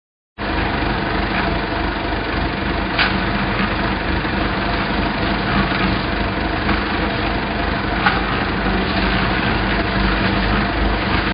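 Harvester engine running steadily, starting abruptly about half a second in.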